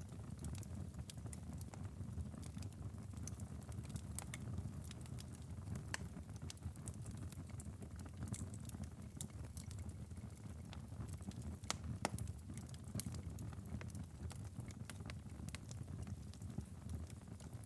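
Wood fire crackling in a fireplace: scattered sharp pops and snaps over a low steady rumble of the flames, with a louder pop about twelve seconds in.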